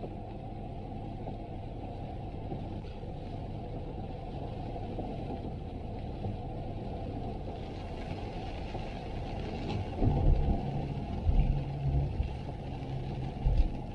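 A steady low rumble, joined from about ten seconds in by louder, irregular low thumps.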